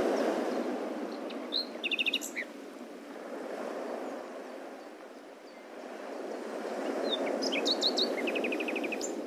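Birds chirping, with short calls and quick trills of repeated notes about two seconds in and again near the end, over a steady rushing background noise that slowly swells and fades.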